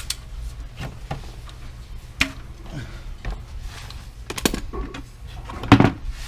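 Scattered knocks and clatter of objects being handled, with one louder knock near the end, over a steady low hum.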